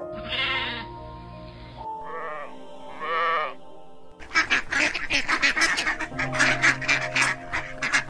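Sheep bleating, three quavering calls in the first four seconds, over background music. From about halfway through comes a dense run of rapid, harsh animal calls.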